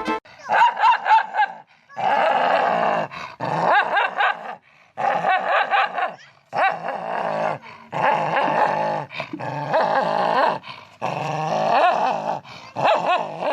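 A dog vocalizing in a run of about nine drawn-out, wavering growl-howls with short pauses between them, like a dog 'talking back'.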